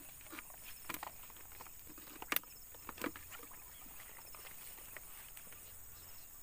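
Scattered light taps and knocks, the sharpest about two and a half seconds in, over a steady high hiss.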